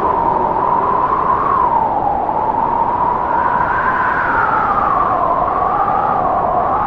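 Strong winter wind blowing: a steady rush with a whistling tone that slowly rises and falls in pitch.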